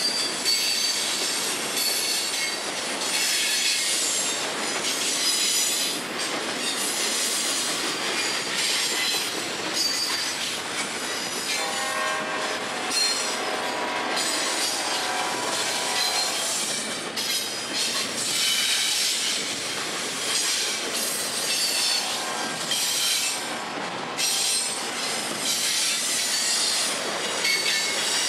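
Double-stack container train's well cars rolling past: a steady rush and clatter of steel wheels on rail, with high-pitched wheel squeals coming and going.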